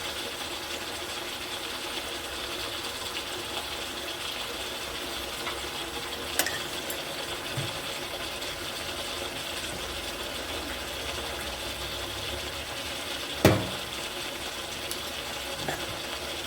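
Kitchen cooking sounds: a steady hiss with a sharp utensil click partway through and one loud knock of a utensil against a pot about two-thirds of the way in.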